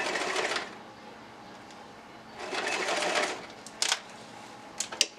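Sewing machine running in two short bursts of about a second each as a hair weft is stitched onto a wig cap, followed by a few sharp clicks near the end.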